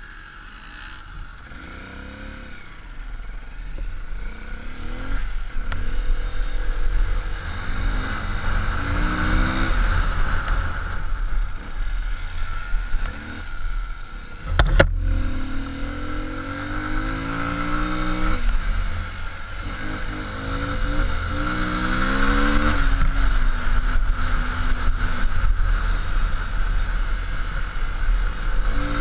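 Car engine under way, its note rising in pitch and dropping back several times as it accelerates and changes gear, over a steady low road rumble. There is one sharp knock about halfway through.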